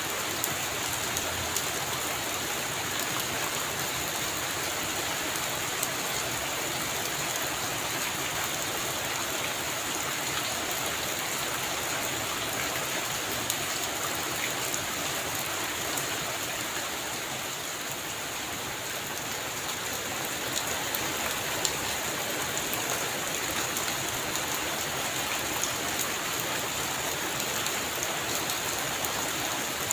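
Heavy rain falling steadily, a dense even hiss with scattered sharp drop ticks; no thunder is heard.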